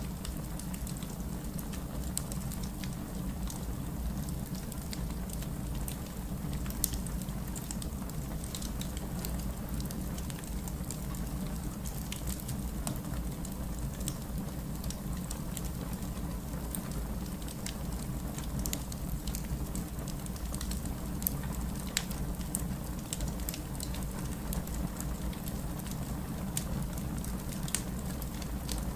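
Wood fire crackling in a fireplace: a steady low rumble of flames with frequent small sharp pops and snaps scattered throughout.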